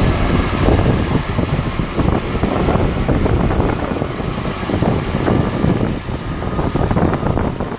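A New Holland T7.315's 6.7-litre six-cylinder diesel tractor engine running under load while working a Kuhn triple disc mower conditioner set, with wind buffeting the microphone.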